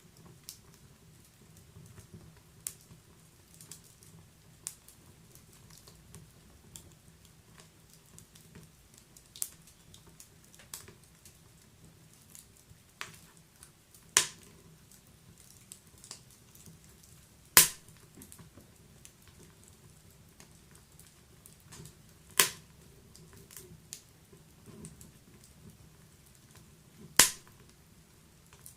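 Wood fire in a fireplace crackling: scattered small snaps over a faint low rumble, with four loud, sharp pops in the second half.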